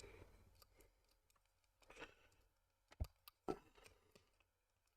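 Near silence with a few faint, sharp clicks, the clearest about three seconds in and another half a second later: small plastic model-kit parts being handled and fitted together.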